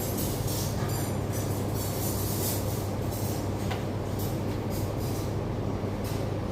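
Steady machinery drone in a large kitchen: a constant low hum under a continuous rumbling whoosh, with a few brief hissy swishes.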